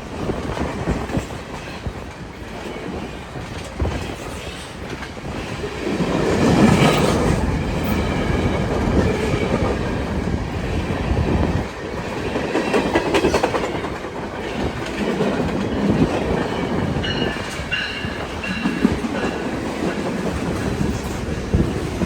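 Freight cars of a long freight train rolling past, with wheels clicking over the rail joints. The noise swells and eases, and faint high wheel squeals come in the later part.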